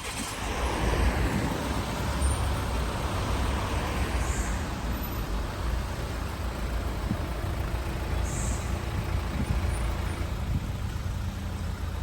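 Road traffic on a rain-wet city street: a steady low rumble of passing vehicle engines with a continuous hiss of tyres and rain.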